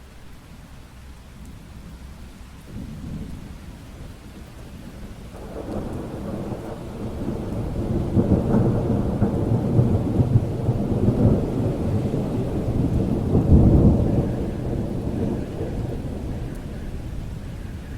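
Steady rain with a long peal of thunder. The deep rumble builds a few seconds in, is loudest a little past the middle, and dies away toward the end.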